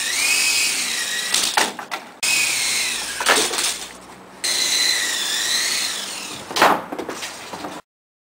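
Small electric RC coaxial helicopter motor and rotors spinning up, giving a high whine that wavers in pitch with the throttle. The whine cuts out abruptly twice and comes back, then stops suddenly near the end.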